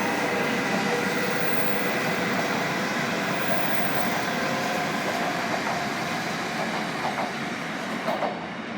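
Joetsu Shinkansen train running through the station: a steady rushing rail noise with a faint whine that slowly fades, with a couple of short knocks near the end.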